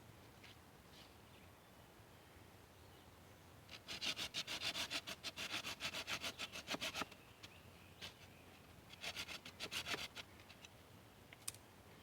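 Hand saw cutting through a wooden stick with quick back-and-forth strokes, about six a second, for some three seconds, then a shorter run of strokes about two seconds later.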